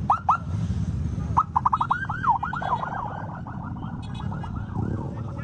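Electronic siren yelping: two quick rising whoops, then from about a second and a half in a fast run of rising sweeps that turns into a rapid warble. A steady low traffic or engine rumble runs underneath.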